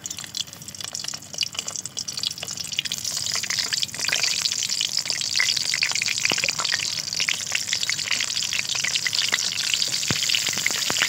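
Whole slit brinjals sizzling and crackling in hot refined oil in a kadhai as they are dropped in one by one. The sizzle builds over the first few seconds as more brinjals go in, then holds steady.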